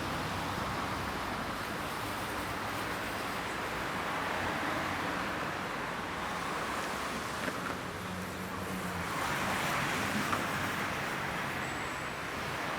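Street traffic noise: a steady hiss of passing cars, swelling as a vehicle goes by about nine to ten seconds in.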